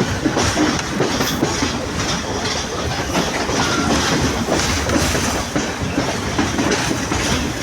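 Sri Lanka Railways Class S11 diesel multiple unit running steadily along the line, with a loud, continuous rumble and the clickety-clack of wheels over rail joints.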